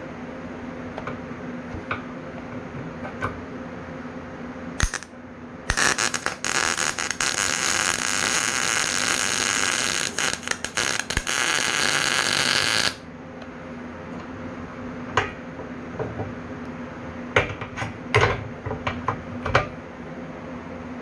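Lincoln SP180 MIG welder running a weld on 1/8-inch steel bed-frame tubing: a loud, steady sizzling crackle for about seven seconds, starting about six seconds in. A steady hum and scattered clicks and taps come before and after it.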